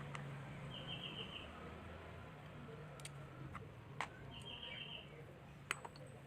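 A bird's short, rapid chirping trill, heard twice, over a low steady hum, with a few light clicks in between.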